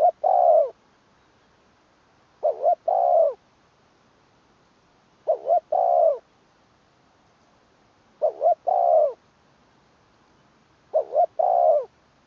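Spotted dove cooing: five repeated phrases about three seconds apart, each a quick double coo followed by a longer, falling coo.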